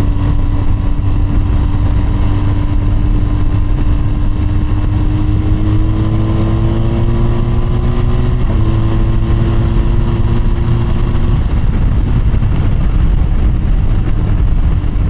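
BMW GS motorcycle riding at speed: a steady heavy rumble of wind and road noise, with the engine note slowly climbing in pitch as it accelerates, dipping briefly about eight seconds in, then fading out a few seconds later.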